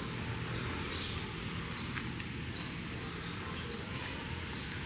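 Outdoor ambience: a steady low background noise with a few brief, high bird chirps.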